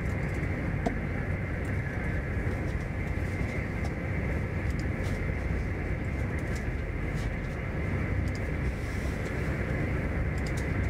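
Steady running noise inside an SJ X40 double-deck electric train moving at speed: an even rumble of wheels on rail and traction equipment, with scattered faint clicks and rattles.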